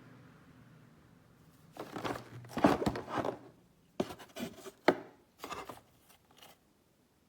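A faint low hum fades out. Then come several seconds of scraping and rubbing handling noises, broken by a few sharp knocks, the loudest about two and a half and five seconds in.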